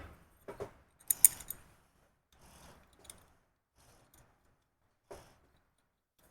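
Small steel bolts and a metal plate being handled and fitted by hand: scattered light metallic clicks and clinks, the sharpest a quick cluster about a second in, then a few faint taps.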